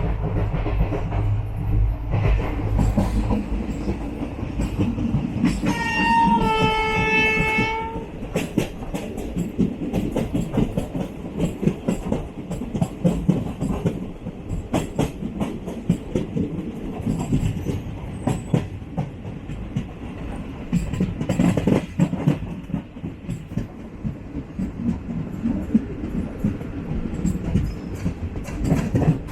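Running rumble and clatter of a moving passenger train heard from inside an AC coach, the wheels clicking over rail joints. About six seconds in, the locomotive horn sounds for about two seconds: a brief higher note dropping to a longer lower one.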